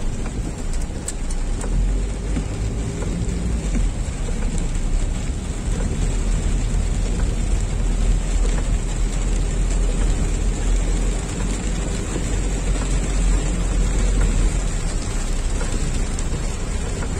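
Heavy rain drumming steadily on a car's roof and windscreen, heard from inside the car, over a steady low rumble of the car driving on the wet road.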